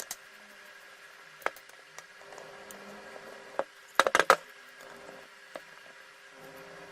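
Scattered sharp clicks and knocks of hard parts or tools being handled, with a quick run of about five louder clicks about four seconds in, over a faint steady hum.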